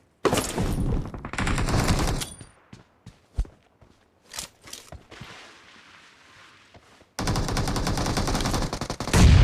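Video game automatic gunfire: a rapid burst of shots for about two seconds, a few scattered single shots and clicks, then another long rapid burst from about seven seconds in. A heavier, deeper blast comes near the end.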